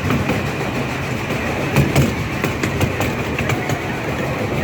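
Train cars rolling along the track with a steady rumble, their wheels clicking irregularly over rail joints.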